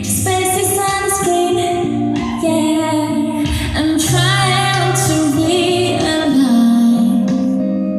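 A woman's voice singing a slow pop song over a backing track, with some held notes that waver slightly about halfway through.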